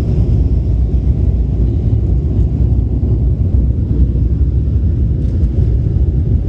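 Steady low rumble of an airliner cabin on the ground before takeoff, with a few faint ticks about five seconds in.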